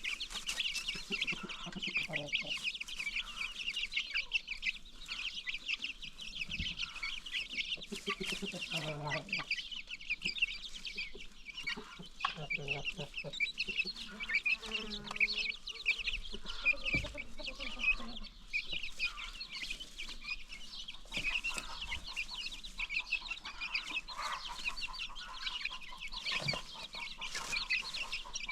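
Free-range chickens clucking, over a continuous dense high-pitched chirping.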